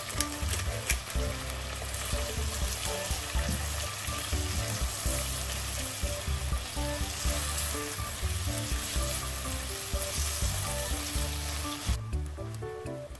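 Shrimp and diced chicken sizzling in hot garlic oil in a non-stick wok while a utensil stirs and scoops them. The sizzle cuts off suddenly near the end.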